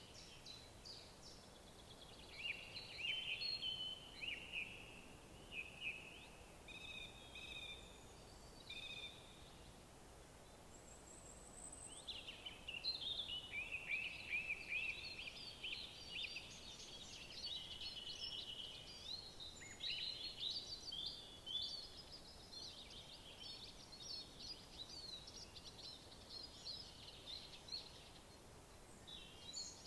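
Songbirds singing: quick, warbling phrases at first, a short lull, then a long stretch of near-continuous overlapping song, over a faint steady background hiss.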